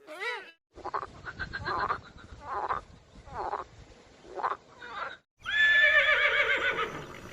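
Animal calls across spliced clips. First a short call, then a run of five or six calls about a second apart, then after a sudden cut one longer, louder call with a steady high whine behind it.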